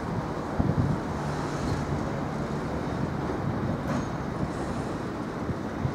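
Aggregate hopper wagons of a freight train rolling past: a steady rumble of steel wheels on the rails, with a few short, heavy knocks as wheelsets pass.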